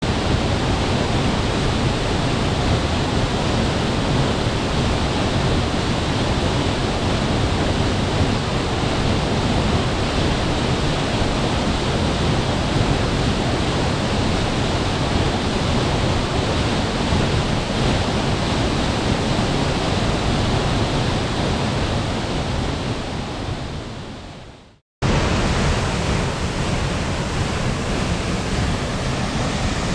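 Steady rushing roar of a waterfall. It fades out about 24 seconds in, breaks off for a moment, then starts again abruptly.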